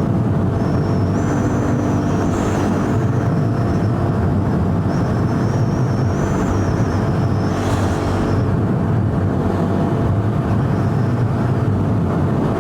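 KTM 390 Duke's single-cylinder engine running at a fairly steady cruise, heard through wind noise on the rider's microphone.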